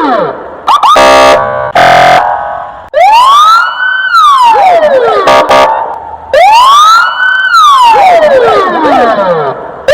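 Police siren: two short buzzing horn blasts, then two long wails, each rising over about a second and falling away more slowly.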